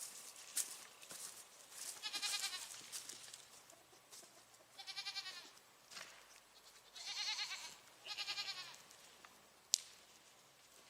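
Goats bleating: four separate quavering bleats, each under a second long, with a single sharp click near the end.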